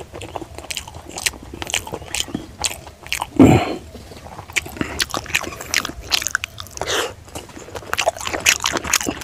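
Close-up eating sounds of a man chewing a mouthful of rice and pork fry eaten by hand: wet chewing and lip smacks, many short clicks in a row, with one louder, longer mouth noise about three and a half seconds in.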